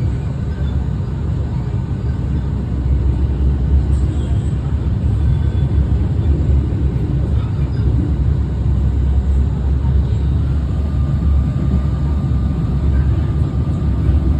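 RER C suburban electric train running, a steady low rumble.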